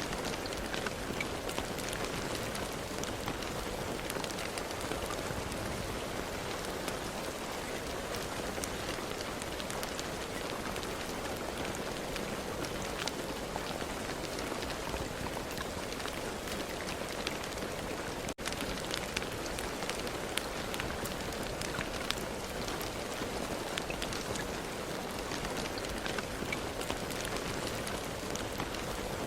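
Steady rain falling: an even hiss dotted with the small ticks of individual drops, with one momentary break about two-thirds of the way through.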